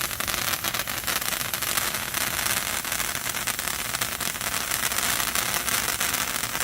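A World Class Fireworks Patriot Stick, a large sparkler-type novelty firework, burning with a steady fizzing hiss full of tiny crackling pops.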